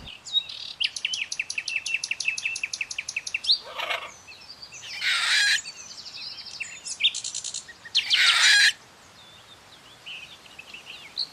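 Captive birds calling: a fast run of repeated high chirps, then two loud, harsh squawks about five and eight seconds in, with lighter chattering between them.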